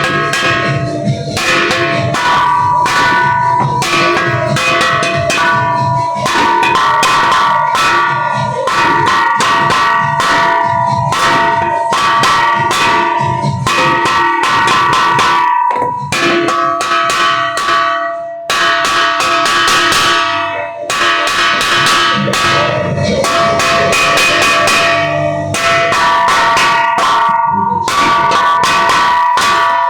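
Several bells of different pitches rung in rapid, continuous succession, their strikes overlapping into a ringing peal, with a few brief breaks about halfway through.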